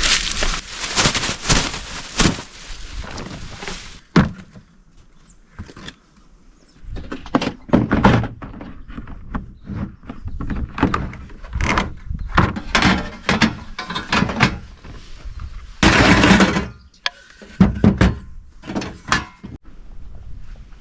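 Cooking gear and supplies being unpacked and handled: a run of thunks, knocks and rattles, with a squeak among them. A steady rushing noise fills the first few seconds, and there is a louder noisy stretch about 16 seconds in.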